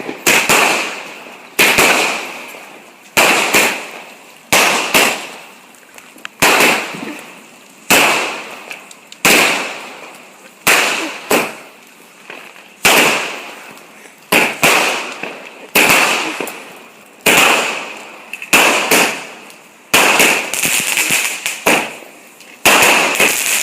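Fireworks going off: a steady series of sharp bangs about every second and a half, each one trailing off in a fading crackle.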